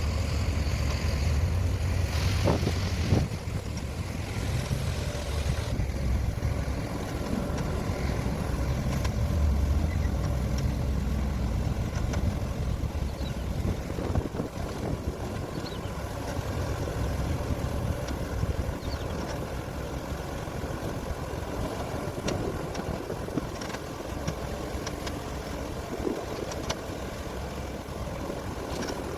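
Heavy diesel engine of a Caterpillar 385C hydraulic excavator running steadily at a mine, with a few sharp knocks about two to three seconds in and again about halfway through.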